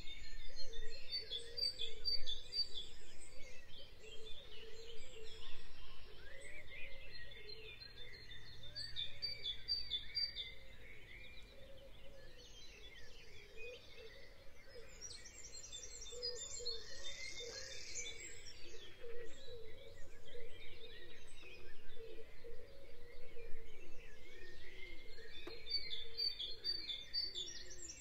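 Birds chirping and singing, with a phrase of rapid high notes coming back about every eight seconds over a busy background of shorter calls.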